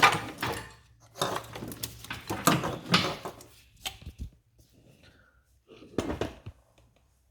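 Metal tools and engine parts clinking and rattling as they are handled during disassembly of a Toyota 2AZ engine, with a few sharp clicks and knocks. The clatter comes in irregular bunches, with a couple of single knocks in the middle and a last short cluster near the end.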